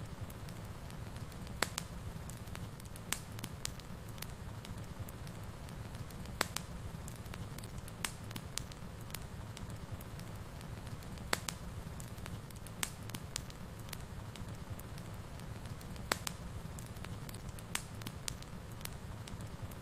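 Wood fire burning in a fireplace: a steady low rumble of flame with irregular sharp crackles and pops from the burning wood, a few each second or so.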